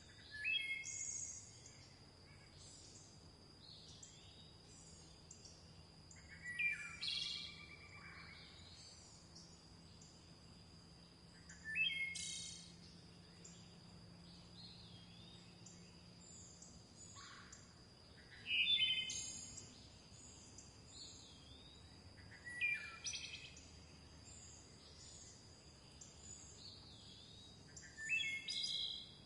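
Wild birdsong: one bird repeats a short phrase of quick, stepped, falling notes six times, about every five to six seconds, over faint high chirping from other birds. A steady high-pitched tone sits under it throughout.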